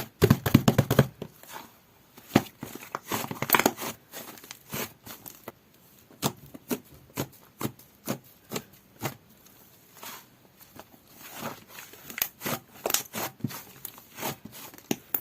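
White butter slime squished and pressed by hand: a run of short sticky clicks and crackles, in denser clusters near the start and about three and a half seconds in, and coming faster again near the end.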